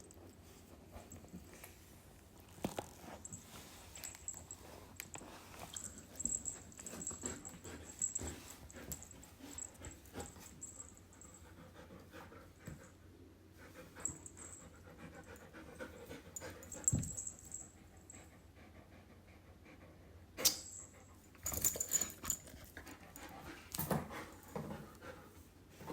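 German Shepherd dog panting, with rustling and a few sharp knocks and clicks, the loudest near the end.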